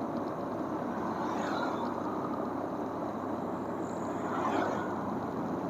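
Wind rushing over the microphone and road noise from a motorcycle riding along, its engine running steadily underneath.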